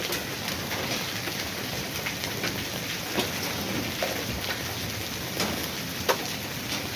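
Heavy rain falling steadily, with scattered drops ticking on a nearby surface and two louder drips about three and six seconds in.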